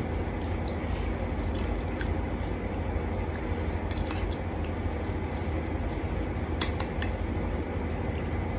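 Utensils clinking against dishes a few times, spaced seconds apart, over a steady low background hum.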